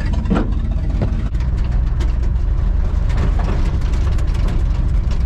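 1979 Ford F-150's V8 engine running steadily at idle.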